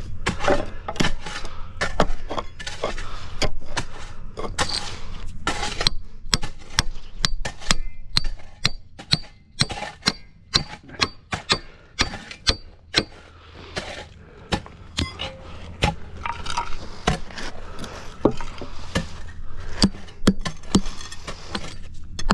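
Hammering nails into wooden 2x4 form boards: a long series of sharp, irregular blows, some in quick runs, several with a brief metallic ring.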